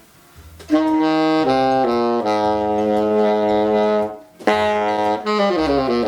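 Saxophone played with an old I.O.A. reed: held notes stepping downward, a brief break, then a quick descending run into another held note. The player finds this reed brittle-sounding and unstable.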